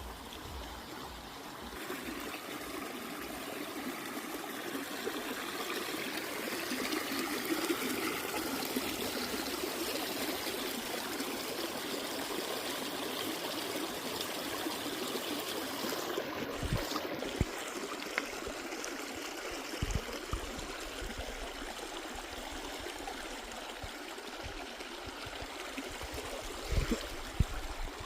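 Stream water flowing and trickling steadily, with a few brief low thumps about two thirds of the way through and near the end.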